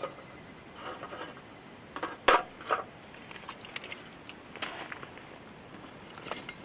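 Scattered small knocks and clatters of objects being handled, a few seconds apart, with the sharpest knock about two seconds in.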